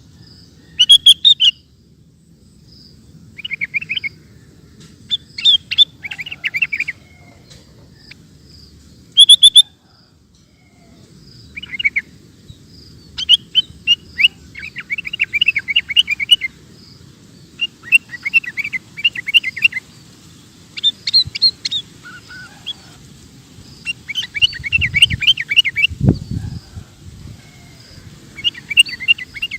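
Sooty-headed bulbul (kutilang) singing: repeated short phrases of quick, chirpy notes, each a second or two long, with pauses between. A single low thump comes near the end.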